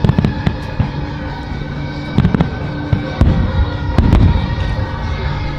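Aerial fireworks bursting in a display: deep booms about once a second, with sharper cracks between them. Music with long held notes plays underneath.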